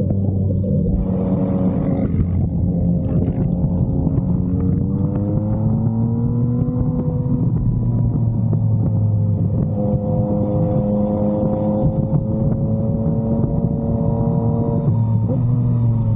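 Yamaha MT-09 inline-three engine through an aftermarket SC-Project exhaust, heard while riding at steady part-throttle. The pitch rises gently a few seconds in and eases back, then holds, with a brief drop near the end.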